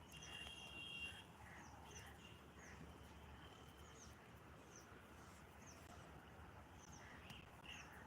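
Faint birds chirping: short, high, repeated calls, about two a second, over a low background hum.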